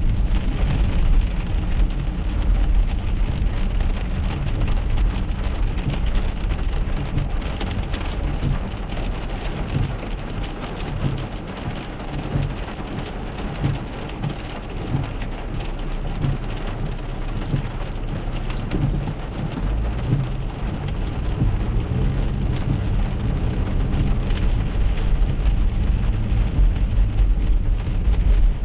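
Rain pattering on a car's windshield and roof, heard from inside the car over a steady low rumble of road and engine noise.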